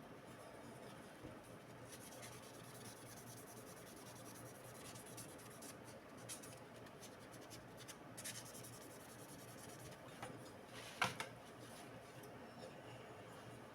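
Faint scratching and rubbing from hands handling small parts, with a few light ticks and one sharper click about eleven seconds in.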